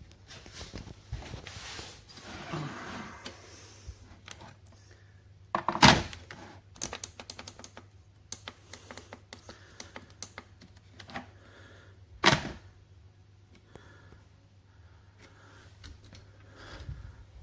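Scattered light clicks and taps, with two sharp louder knocks about six seconds apart, over a faint low steady hum.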